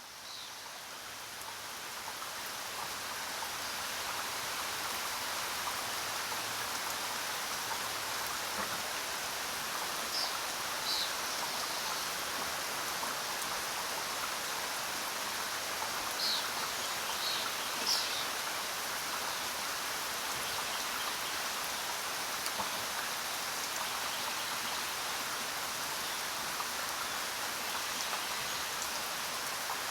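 Steady jungle rain, swelling in over the first few seconds, with a few brief high bird chirps in the middle.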